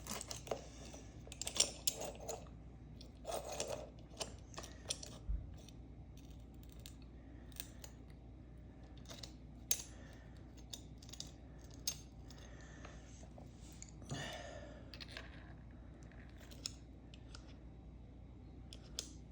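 A chainsaw chain being hand-sharpened: short metallic scrapes and clicks at irregular intervals, with a few longer rasping strokes, about one and a half, three and a half and fourteen seconds in.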